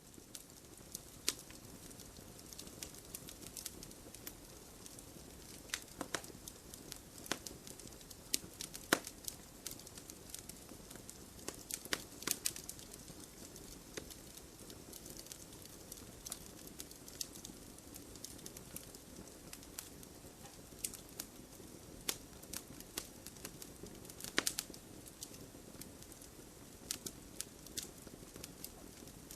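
Wood fire burning in a fireplace: a steady low rustle of flames with irregular sharp crackles and pops from the logs, a few louder pops scattered through.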